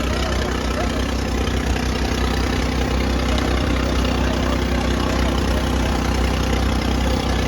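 Tractor diesel engine running steadily at an even pitch.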